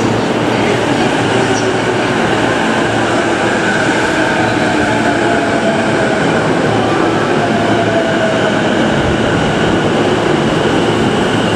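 JR Nambu Line electric commuter train running at the platform: a loud, steady rumble with a faint motor whine that slides in pitch partway through.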